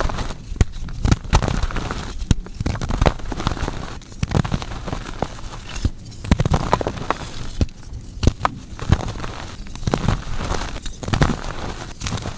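Blocks of gym chalk being crushed and crumbling, with a dense run of irregular sharp crackles and crunches.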